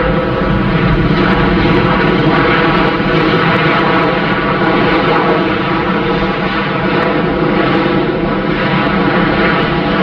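Korean Air Airbus A380-800 taking off, its four jet engines at takeoff power with a loud, steady rumble and a layered drone.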